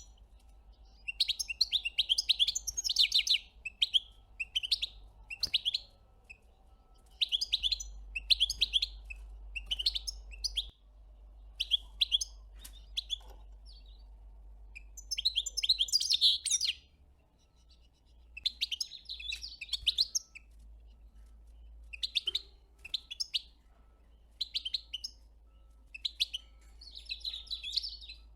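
Small songbird twittering in short bursts of rapid high chirps, about one burst a second, with a sparser stretch partway through.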